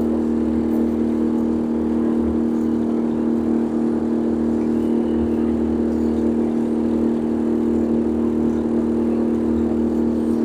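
A boat's engine droning steadily at low speed, with several fixed low tones, and a low uneven rumble of wind on the microphone.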